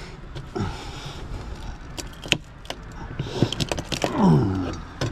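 Light metallic clicks and clinks of scrap parts being worked apart by hand, with a falling, strained grunt about four seconds in.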